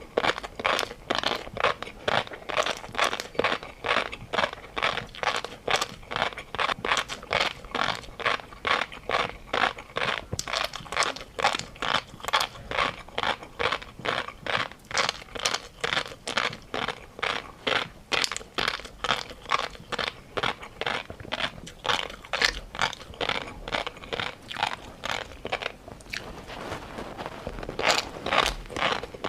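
A person chewing crunchy food close to the microphone: steady, regular crunches about two a second, with a short lull a few seconds before the end.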